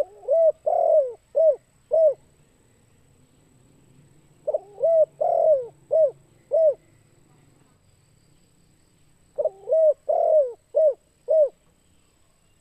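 Spotted dove (tekukur) cooing: three song phrases of about five short coos each, spaced roughly four to five seconds apart.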